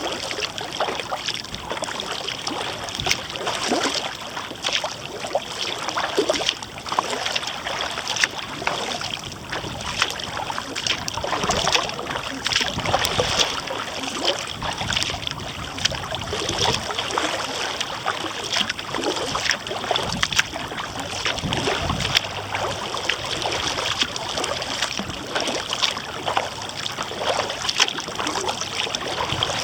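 Water splashing, trickling and lapping around a kayak as it is paddled, with many small crackling splashes and drips.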